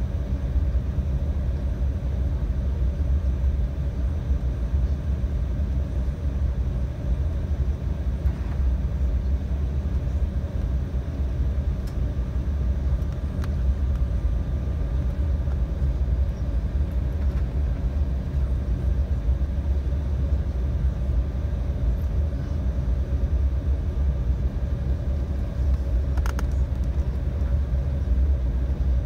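Embraer 195 airliner heard from inside the cabin: a steady low rumble from its turbofan engines and the air rushing past, with a faint steady hum over it. A brief click comes near the end.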